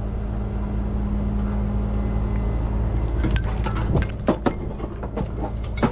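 Heavy truck engine running steadily, its hum easing about halfway through, then a string of sharp metal clanks and knocks.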